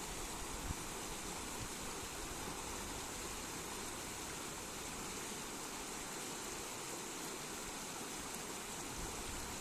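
River flowing: a steady, unbroken rush of running water.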